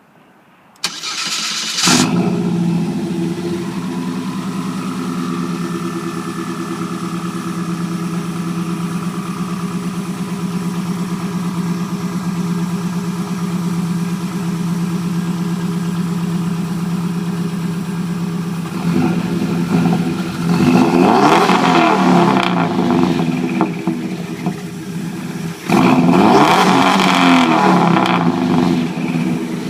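Turbocharged 2.2-litre four-cylinder engine of a Chevrolet S10 pickup, heard through its finished exhaust, which no longer dumps under the bed. It is cranked and fires up about two seconds in, then idles steadily. Near the end it is revved twice, each rev climbing and falling back to idle.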